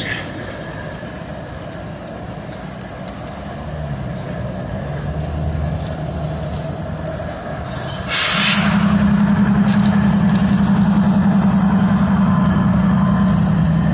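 A GE ES44AC diesel locomotive idling while standing, a steady low running sound. About eight seconds in there is a short sharp hiss of released air, and after it the engine drone becomes clearly louder and stays steady.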